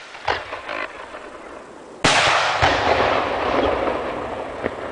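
Aerial fireworks: a few sharp crackles, then about two seconds in a sudden loud shell burst whose report rings out and slowly dies away.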